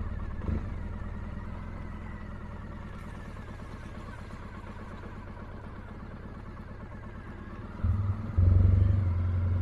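Triumph T100 parallel-twin motorcycle engine with a sidecar attached, running steadily at low speed. It grows louder about eight seconds in as the throttle opens.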